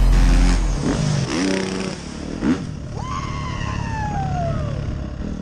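Motocross motorcycle engines revving up and down on the track. About three seconds in, a high whine slides steadily down in pitch as a bike passes by, then fades.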